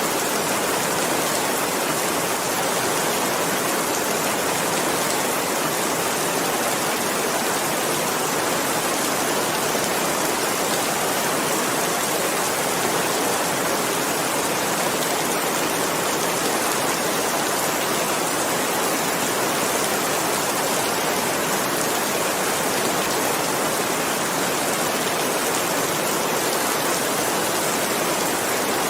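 Steady, unbroken rainfall, an even hiss of many drops with no thunder or pauses.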